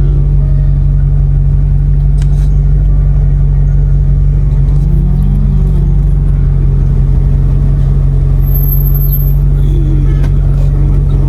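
Steady low drone of a Maserati GranTurismo's V8 engine and road noise while the car cruises at an even pace, with a brief slight rise and fall in engine pitch about halfway through.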